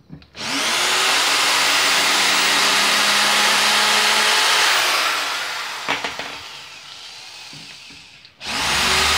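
Bosch GSR 7-14 E corded drill/driver motor spinning up and running at speed into wood for about four seconds, then easing off to a quieter run. It starts up loudly again near the end.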